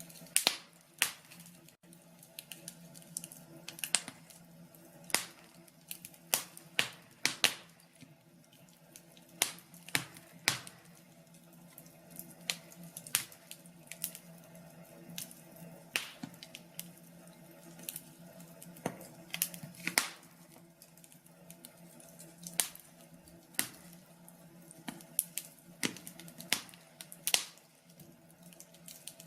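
Wood fire crackling in a fireplace: irregular sharp pops and snaps, sometimes several in a second, over a faint steady low hum.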